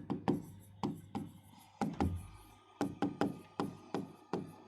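A run of sharp, hard knocks at about three a second, thinning out for about a second in the middle.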